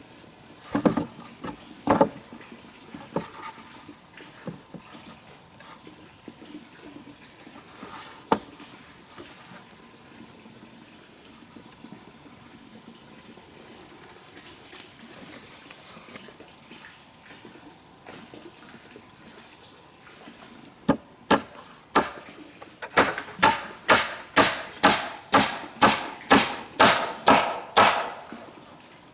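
Sharp strikes of a tool on wood during building work: a few scattered blows early, then a steady run of about a dozen at roughly two and a half a second near the end, like chopping or hammering.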